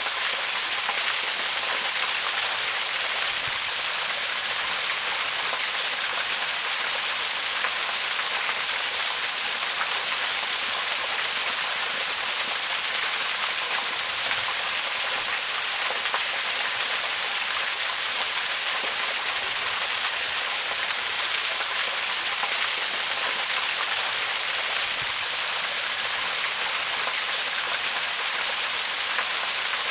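Waterfall: a steady, even rush of falling water, bright and hissy, with no change throughout.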